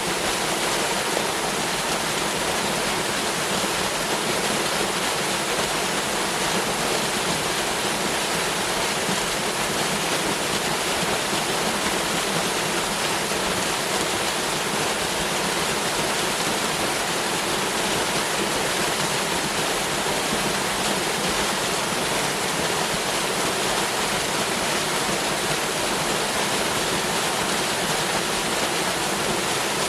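Waterfall: a steady, even rush of falling water, with no change or break.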